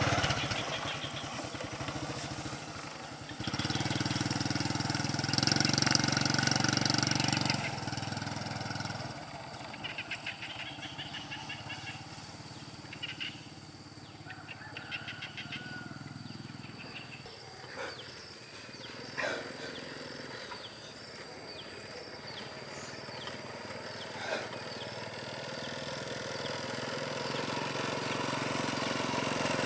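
A small engine running steadily, fading out about a quarter of the way in. A quieter stretch follows with short chirps and a few sharp knocks, then engine noise builds again near the end.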